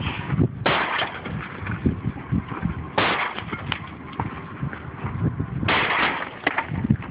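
Irregular knocks, clanks and rattles of a shot-up car door being wrenched and shaken by hand. A rushing noise cuts in suddenly three times.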